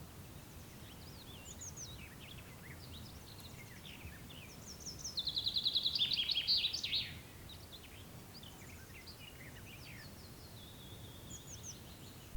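Songbirds singing in a forest clearing: scattered quick chirps and phrases, with one bird's loud rapid trill about five seconds in lasting around two seconds, and a shorter trill near the end. A faint steady low rumble runs underneath.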